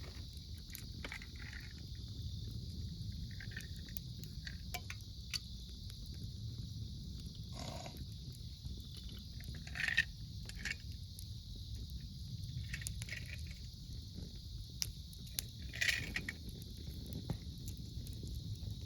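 Wood fire crackling in a fire stand, with scattered sharp snaps and a few louder pops near the middle and near the end, over a steady high chorus of autumn insects and a low rumble.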